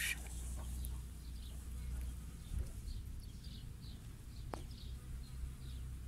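Faint outdoor ambience: distant birds chirping in short, scattered, falling calls over a low steady rumble, with one soft click about two-thirds of the way through.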